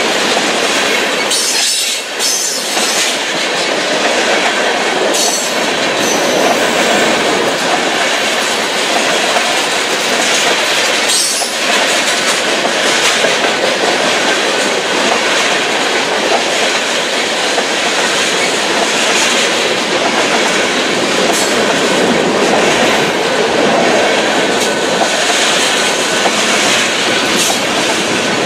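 Empty railroad tank cars of a freight train rolling past: a steady loud rattle and roll of steel wheels on rail, with occasional clacks.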